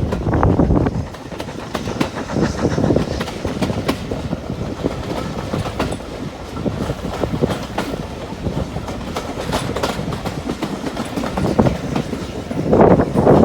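A train running by on the heritage railway, its wheels clicking and clattering over the rail joints. It grows louder again near the end.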